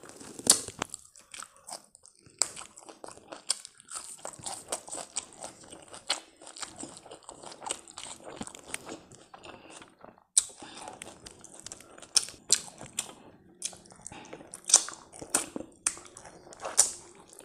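Close-up eating sounds: a person chewing a mouthful of rice and pickle gravy eaten by hand, with irregular wet mouth clicks and lip smacks, and sucking on the fingers.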